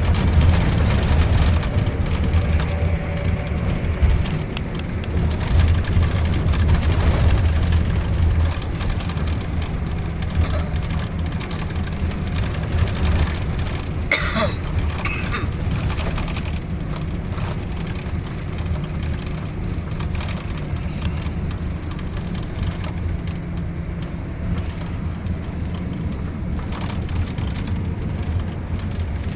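Scania K410iB bus's inline-six diesel running steadily at cruise, a low drone mixed with road noise. A brief sharp noise cuts in about halfway through.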